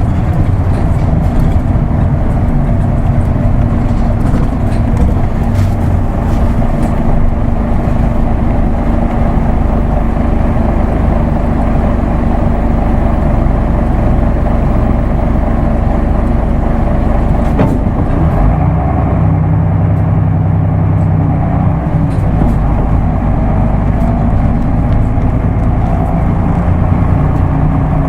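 Isuzu Erga Mio (KK-LR233J1) bus's six-cylinder diesel engine running steadily on the move. Its note changes after a click about two-thirds of the way through.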